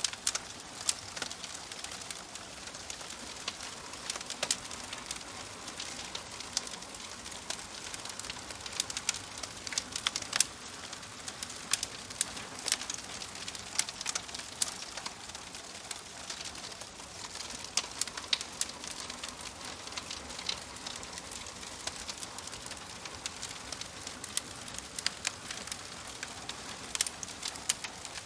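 Wood fire crackling in a fireplace: many sharp, irregular pops and snaps over a steady soft hiss.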